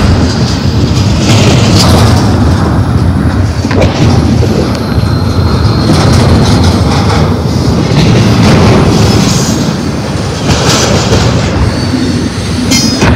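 Double-stack intermodal well cars of a freight train rolling past at close range: a loud steady rumble of steel wheels on rail, broken by sharp clacks as the wheels cross rail joints, the strongest just before the end. A faint high wheel squeal comes and goes in the middle.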